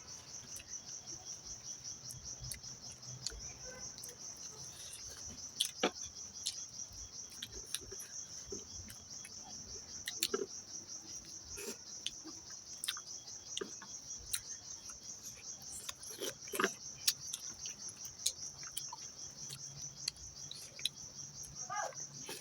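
Insects chirring steadily in a fast, even pulse, with scattered short clicks and smacks of eating and chewing.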